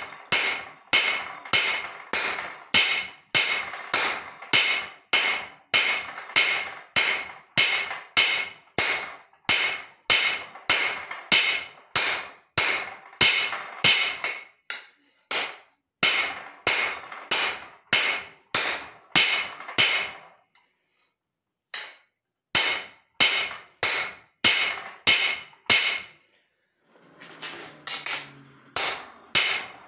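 Hand hammer striking leaf-spring steel on an anvil in steady forging blows, about two a second, each with a short metallic ring. The blows stop for about two seconds around two-thirds through, then resume. A brief softer noise comes near the end before the hammering starts again.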